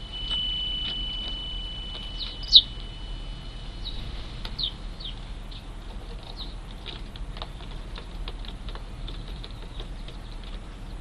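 Eurasian tree sparrows, fledglings among them, giving short sharp chirps, the loudest about two and a half seconds in and a few more soon after. A thin steady high tone runs through the first four seconds, and faint light ticks continue throughout.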